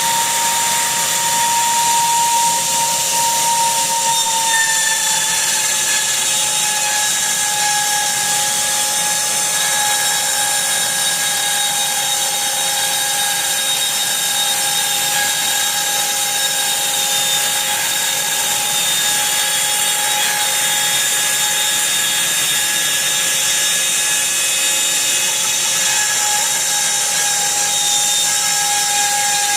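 800 W router spindle of a CNC milling machine running with a steady high whine, which drops slightly in pitch about four seconds in, over the steady hiss of its dust extraction.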